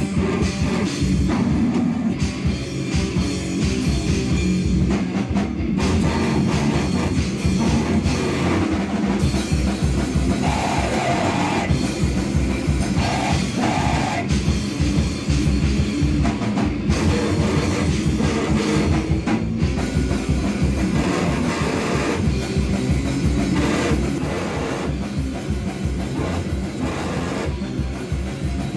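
Live heavy rock band playing loudly: distorted guitar over fast, dense drumming.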